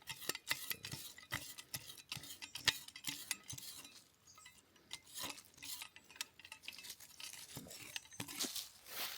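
A metal utensil clinking and scraping against a pot or pan, as in stirring. The clicks come quickly at first and thin out to a few scattered knocks about halfway through.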